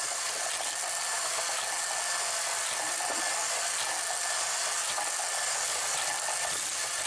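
Hot Wheels Power Tower wall track's motor running with a steady, even whir as die-cast toy cars are driven around the plastic track, with a few faint ticks.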